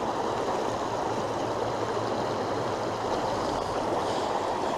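Fast trout-stream water rushing over rocks in a pocket-water run, a steady, even rush.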